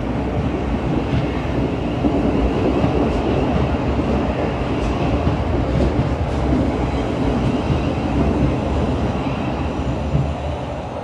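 A passenger train running past a station platform: a steady, loud rumble of wheels on the rails.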